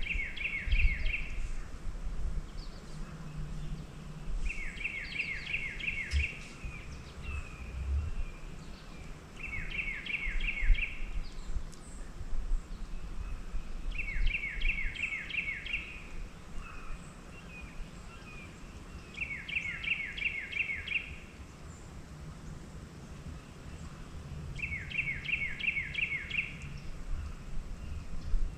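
A songbird singing the same short phrase, a quick run of five or six downward-slurred notes, about every five seconds, six times in all, over a steady low rumble.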